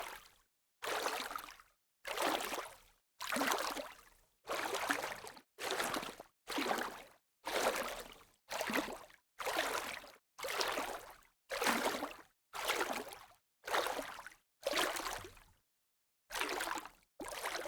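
Rushing water noise from a sea-wave recording, chopped into short bursts about once a second. Each burst starts suddenly and fades within a second, with dead silence between them.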